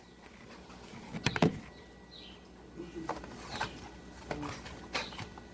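Kitchen handling sounds while raw chicken is seasoned in a bowl: a few short knocks and clatters, the loudest about a second and a half in, with smaller ones further on.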